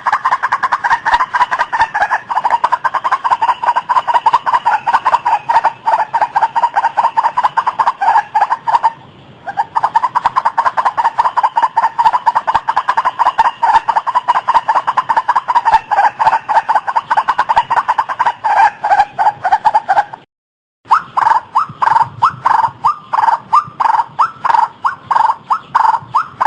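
White-breasted waterhen calling: a fast, continuous run of repeated notes that breaks off briefly about nine seconds in and again near twenty seconds, then goes on as more widely spaced notes.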